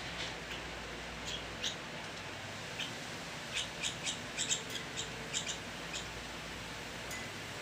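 Baby birds cheeping: a run of short, high chirps, a few at first, then a quick cluster in the middle, over a steady background hiss.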